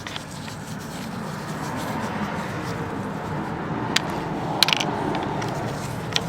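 Hand tools working metal parts on a car's front strut: a steady scraping, with a few sharp metallic clicks about four and four and a half seconds in.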